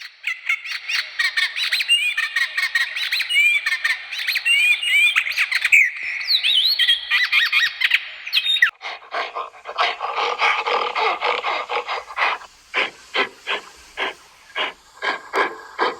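Small birds chirping and twittering in quick gliding notes. About nine seconds in this gives way to a different sound: a run of short, repeated strokes, about three a second at first and then slower and more spaced out.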